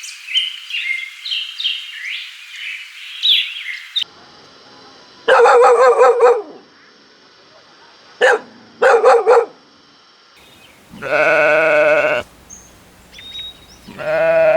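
Baby chicks cheeping in quick, high chirps for about four seconds. Then goats bleat: three shorter calls, followed by two long 'meh' bleats near the end.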